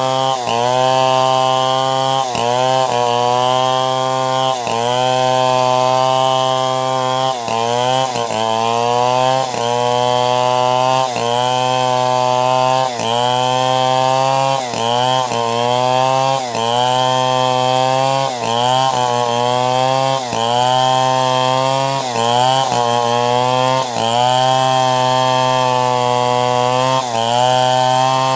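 Chainsaw running under load while sawing timber into planks. The engine note sags as the chain bites and picks back up, over and over, about every one to two seconds.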